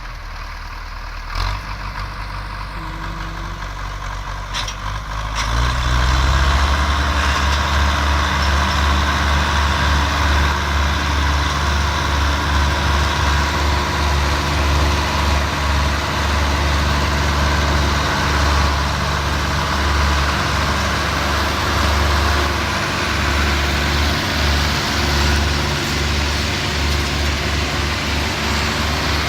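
Tractor diesel engines working hard under heavy load, hauling a loaded trailer. The engine note steps up and gets louder about five seconds in, then holds steady and labouring.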